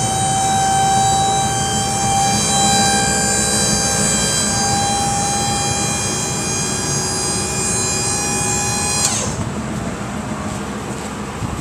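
Electric-hydraulic pump motor of a dump truck's bed hoist running with a steady whine, then cutting off suddenly about nine seconds in. The truck's idling engine runs underneath throughout.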